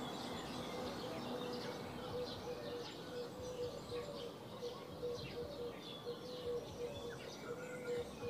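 Small birds chirping repeatedly in short calls, over a faint steady hum.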